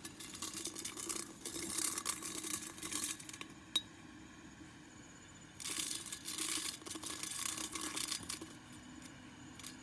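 Dry rustling and crinkling in two stretches of a few seconds each, with a single sharp click between them.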